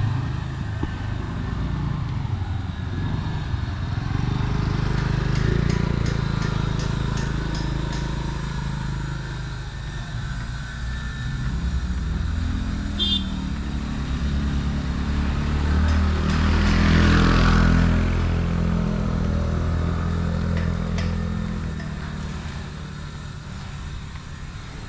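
A motor vehicle's engine running close by, its pitch rising and falling. It grows louder to a peak about two-thirds of the way through, then fades.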